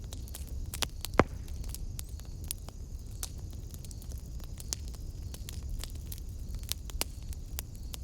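Wood fire burning in a fireplace: a steady low rumble with scattered, irregular crackles and pops, the loudest a sharp pop a little over a second in.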